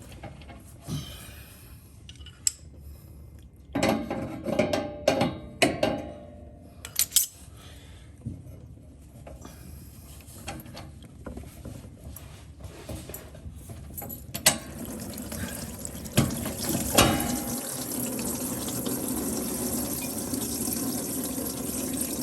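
Metal clanks and rattles as the oil pan drain plug is worked loose, then from about 14 seconds in a steady stream of fluid pouring out of the Pontiac 326's oil pan into a drain pan. The owner takes the fluid for water in the oil.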